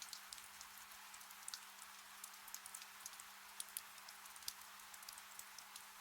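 Gentle rain falling: a soft steady hiss with frequent small drips and patters scattered irregularly through it.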